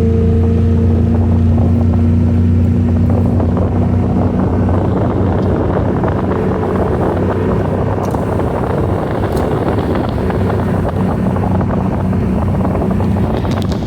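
A watercraft engine running with a steady hum that fades over the first few seconds, giving way to wind buffeting the microphone and rushing water.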